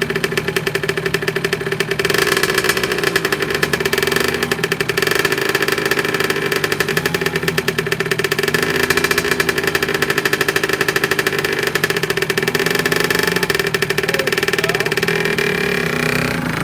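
Dirt bike engine running steadily at a fairly even speed, its rapid firing pulses continuous.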